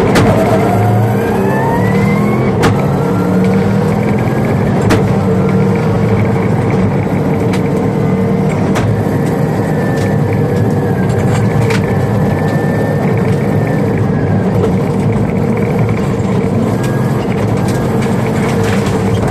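Subaru Crosstrek rally car driven hard on gravel, heard from inside the car: the engine pitch rises as it accelerates in the first couple of seconds, then engine and road noise run loud and steady, with sharp clicks now and then.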